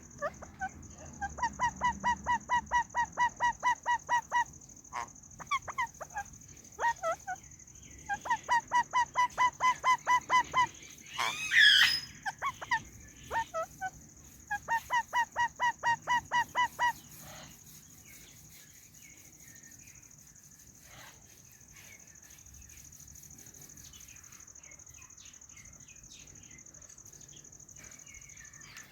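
White Indian ringneck parakeet calling in three runs of sharp repeated chirps, about five a second, with one loud harsh screech about twelve seconds in. The last third is quieter, with only faint scattered clicks.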